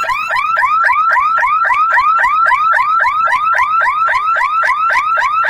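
Electronic warning alarm of a level crossing gate sounding while the gate closes: a loud, rapid series of short rising electronic chirps, about four a second, that cuts off suddenly at the end.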